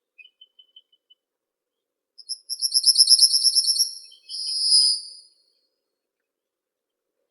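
A songbird sings one high phrase lasting about three seconds, starting about two seconds in: a rapid trill followed by a buzzier closing note. A few faint short chirps come before it.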